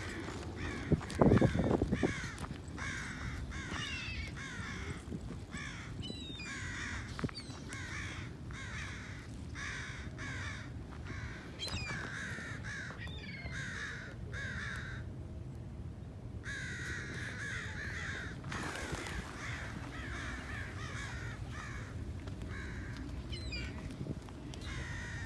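A flock of birds calling over and over in quick, overlapping calls that fall in pitch, briefly letting up about two-thirds of the way through. These are the alarm calls of a flock mobbing around a captured companion. A short loud low rumble sounds about a second in.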